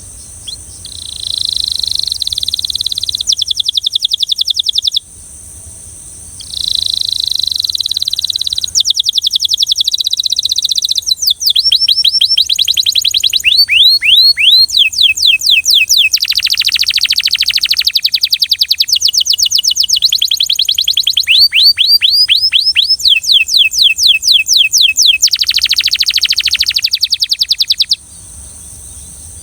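Belgian canary singing: fast trills of rapidly repeated notes, some as quick downward sweeps. There is a short break about five seconds in, and the song stops shortly before the end.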